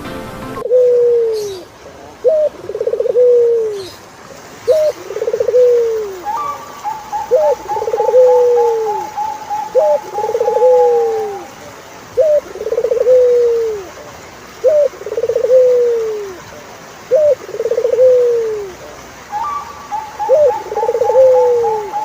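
Turtledove cooing in a steady repeated series: about nine low phrases, each a short rising note followed by a longer falling coo, roughly every two and a half seconds. A steady higher trill runs twice behind it, once in the first half and again near the end.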